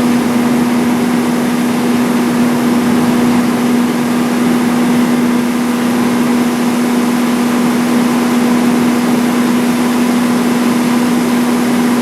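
A farm machine's engine running steadily at an even speed, a loud constant hum over engine noise, with no change in pitch or load.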